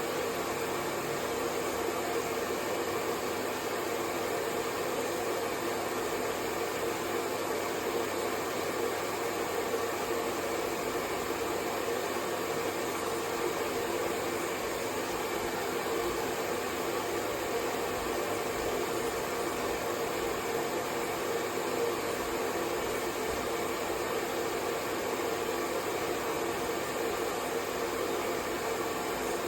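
Hair dryer running steadily: an unbroken rush of air with a steady hum running through it.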